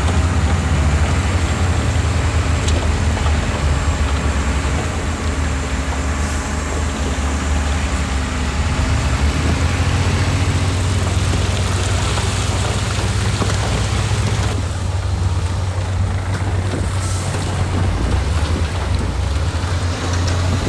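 Heavy diesel engine of earthmoving machinery running steadily with a deep low drone; the higher-pitched noise above it drops away about two-thirds of the way through.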